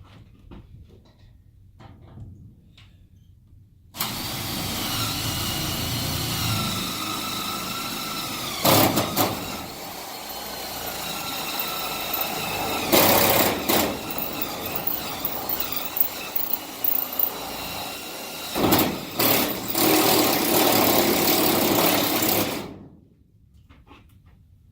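Power drill running for about eighteen seconds, boring a hole into the bus, its motor whine shifting and dropping in pitch as the bit loads. Several sharp loud knocks come partway through and near the end. The drill starts and stops abruptly.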